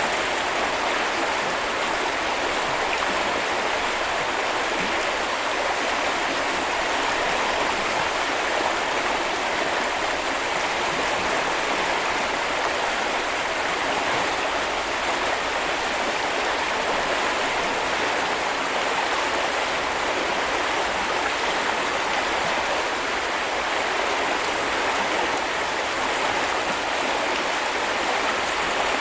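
A small river's water running steadily over rocks, an even rushing and babbling without pauses.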